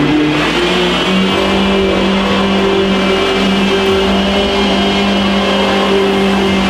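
Off-road 4x4's engine held at high, steady revs, its note almost unchanging after climbing just before.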